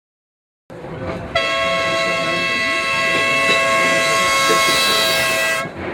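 Blackpool tram's horn sounding one long, loud blast of about four seconds that cuts off abruptly, over street noise.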